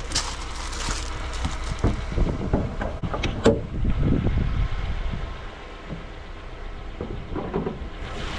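MG ZS engine idling steadily, just started after the car came in as a non-starter, sounding healthy. Several sharp knocks and clicks come in the middle.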